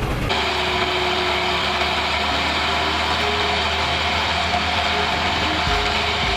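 Heavy vehicle engine running steadily at an even pitch.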